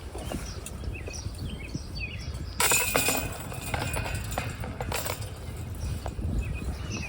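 Outdoor ambience with wind rumble on the microphone and faint bird chirps, broken about two and a half seconds in by a sudden loud clatter that leaves a short ringing tone, and a smaller clatter about five seconds in.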